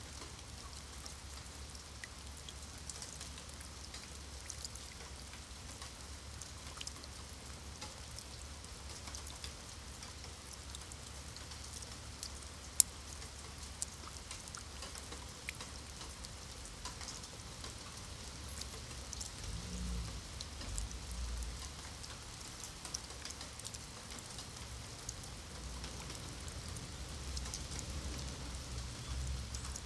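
Steady rain falling on wet stone paving, drops splashing into shallow puddles as a dense haze of small ticks, with one sharp click about a third of the way in. A low rumble swells briefly about two-thirds through.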